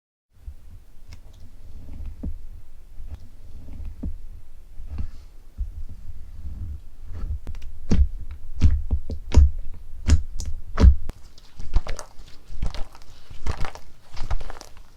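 Slime being worked by hand: a run of short wet clicks and pops over low thudding squelches. The clicks come thicker and louder from about halfway through.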